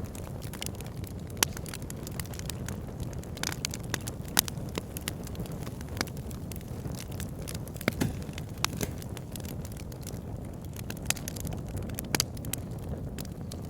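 Wood fire in a log burner crackling, with irregular sharp pops and snaps over a steady low rumble of the flames.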